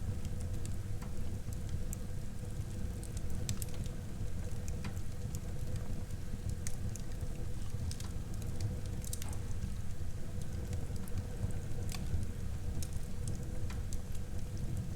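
Wood fire burning in a fireplace: a steady low rumble of flames with irregular sharp crackles and pops scattered through.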